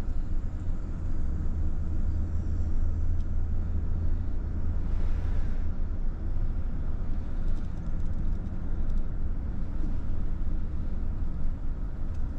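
Car driving along: a steady low rumble of engine and tyre noise on the road, with a brief swell of hiss about five seconds in.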